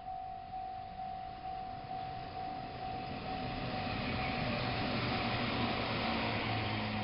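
Japanese level crossing warning bell dinging about twice a second as a Meitetsu train approaches and passes, the train's running noise growing loud from about three seconds in.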